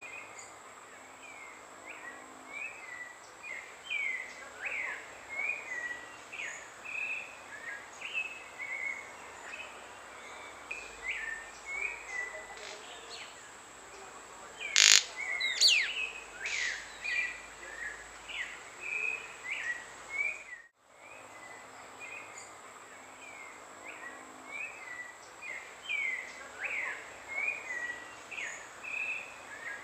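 White-collared manakin with a steady run of short bird chirps, several a second, and one loud sharp snap about halfway through. A thin steady high tone sits underneath, and the sound cuts out for a moment about two-thirds of the way in.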